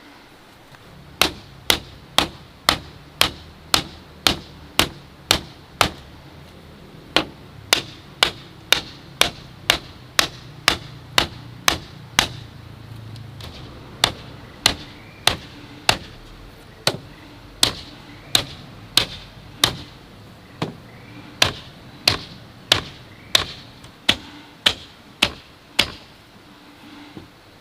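A hand tool striking bamboo: sharp, even blows about two a second, in four runs of about ten strikes with short pauses between.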